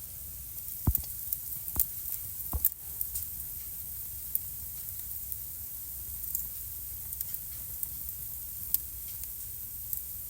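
Wood fire burning in a home fireplace: a steady hiss with scattered sharp crackles, and three louder pops in the first three seconds.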